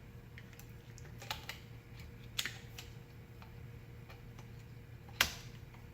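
Small metal parts of a fan motor being handled during disassembly: scattered faint clicks and ticks, with a sharper click about five seconds in, over a low steady hum.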